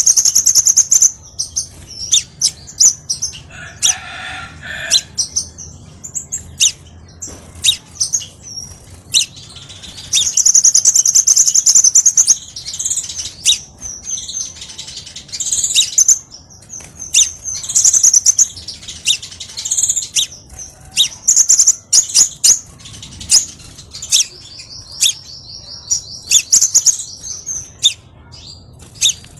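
Crimson sunbird song: a fast stream of high-pitched chirps and twittering trills, with a quick, even trill near the end.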